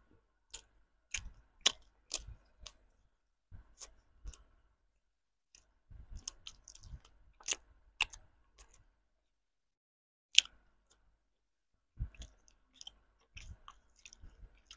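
Close-miked biting and chewing of small car-shaped milk-chocolate candies: clusters of sharp mouth clicks and crunches, broken by a pause of about a second and a half past the middle.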